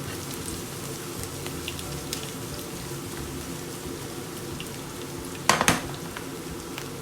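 Diced onion and garlic sizzling in oil in a pan, with scattered small pops as they fry toward golden. A sharp double clatter, like a utensil knocking the pan, about five and a half seconds in.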